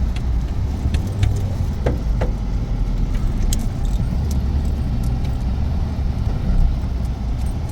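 Storm wind buffeting the microphone: a steady, uneven low rumble, with a few faint clicks.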